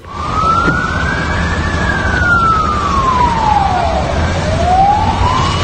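A siren wailing in slow sweeps: it rises for about a second and a half, falls for about two and a half seconds, then rises again. A steady low rumble of street noise runs beneath it.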